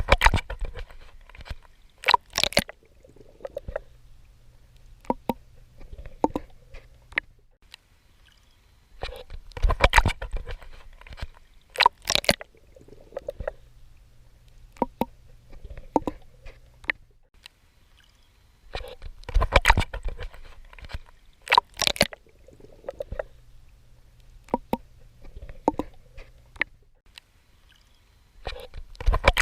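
Swimming in water: clusters of splashing and sloshing strokes come back about every ten seconds, with softer gurgling and low, muffled water noise between them.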